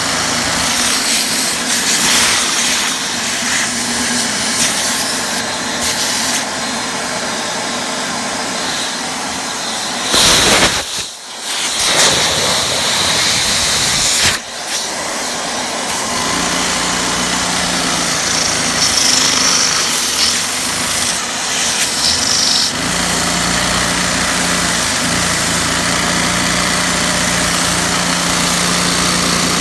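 A two-cylinder LEGO vacuum engine running on the suction of a household vacuum cleaner, heard mainly as the vacuum cleaner's steady, loud motor hiss. The sound breaks off briefly about ten seconds in, and a low steady hum joins later on.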